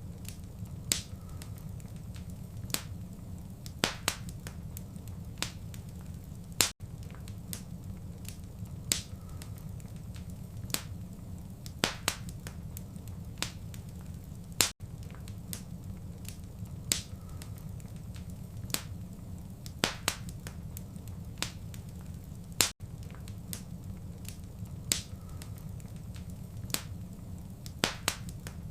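Wood fire crackling: sharp, irregular pops and snaps over a steady low rumble. About every eight seconds there is a split-second gap where the short recording loops.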